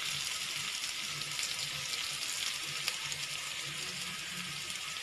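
Oil sizzling steadily as moong-dal aluvadi, colocasia leaf fritters, shallow-fry in a pan, with one sharp click about three seconds in.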